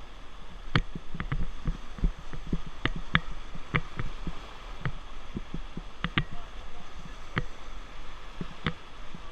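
Rushing river water under a raft, with irregular sharp knocks and clicks coming one to three times a second.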